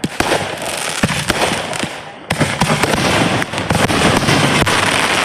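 Fireworks going off: a rapid string of sharp bangs over dense crackling, which jumps to a louder, thicker barrage a little over two seconds in.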